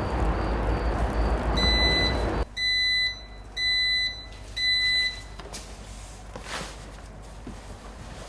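An electronic appliance beeper sounds four even, high beeps about once a second, each about half a second long. A loud steady rushing noise under the first beep cuts off suddenly just before the second.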